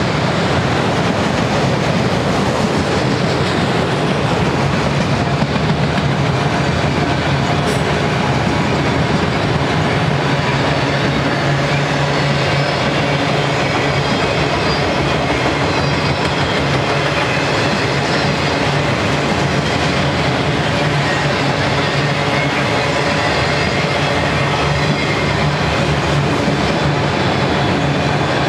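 Freight train of loaded auto-rack cars rolling past at steady speed: a constant rolling noise of steel wheels on rail, with faint high steady tones above it.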